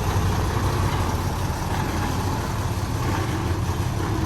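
Heavy diesel engine of earth-moving machinery running steadily, low and even.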